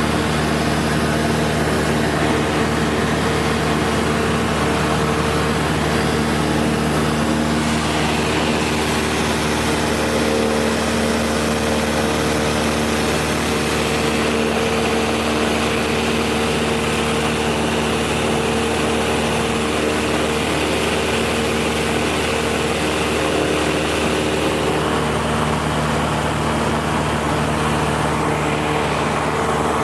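Cessna 172 SkyHawk II's four-cylinder Lycoming engine and propeller droning steadily in cruise flight, over a strong rush of air noise. The engine note shifts slightly about eight seconds in and again near the end.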